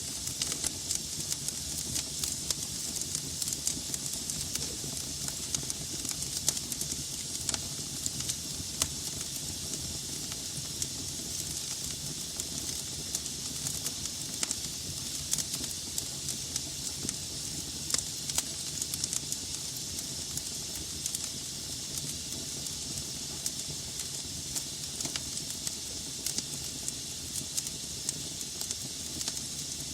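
Wood fire burning in a fireplace: a steady hiss with frequent small crackles and pops from the burning logs.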